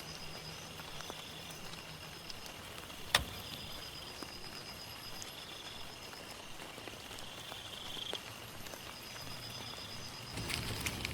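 Rain pattering steadily in a forest while insects trill continuously at high pitch, one with a fast pulsing trill. A single sharp click about three seconds in, and louder rustling near the end.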